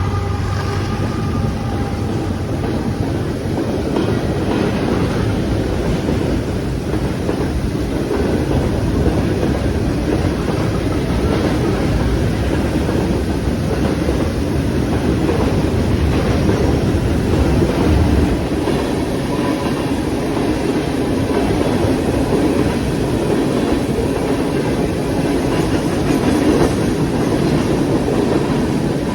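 Train cars rolling past with a steady clickety-clack of wheels over the rails, mixed with heavy rain.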